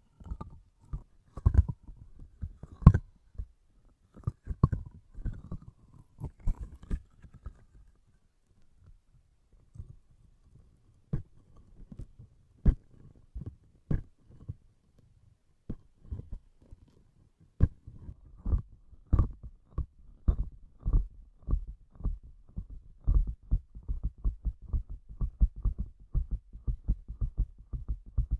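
Sticky, tacky object handled close to the microphone: a run of short low thuds and sticky taps as it is pressed and released. The taps are irregular at first, thin out for a couple of seconds, then come faster and more evenly toward the end.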